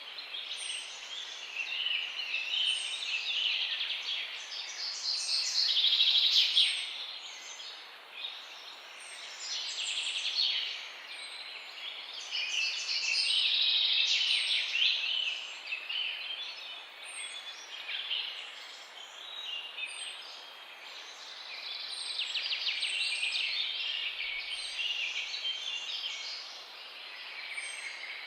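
Several songbirds singing together in a busy chorus of overlapping warbles and trills, swelling and easing every few seconds. A thin, short high chirp repeats every second or two above the rest.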